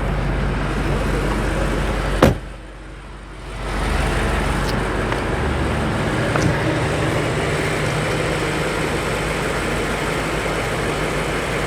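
BMW X5 M Competition's twin-turbo V8 idling steadily, with a sharp click about two seconds in, after which the sound drops away briefly before coming back.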